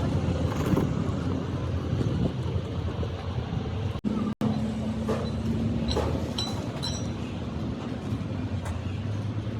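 An engine or motor running steadily with a low hum, with a few sharp clicks and knocks partway through. The sound cuts out twice briefly about four seconds in.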